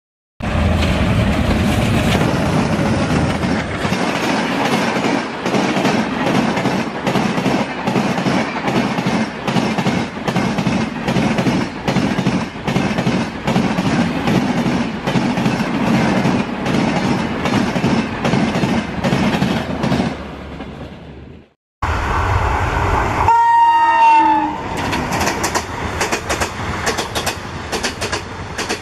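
Train wheels clacking over rail joints in a steady clickety-clack, about two clacks a second. After a brief break a train horn sounds once for about a second and a half, its pitch sagging, and then the clacking comes quicker.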